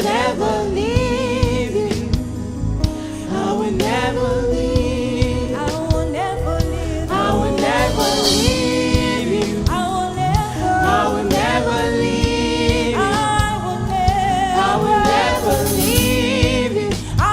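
Gospel worship music: singing voices holding and sliding between long notes over a band with bass and steady drum hits.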